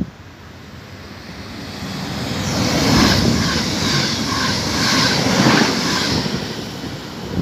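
A red S-Bahn electric multiple unit passes through at speed. Its rumble builds over a couple of seconds, stays loud for about three seconds with a regular clatter of wheels on the rails, then fades as it goes by.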